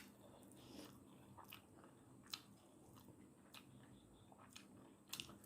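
Faint chewing of instant noodles, with a few short sharp mouth clicks and smacks spaced about a second apart.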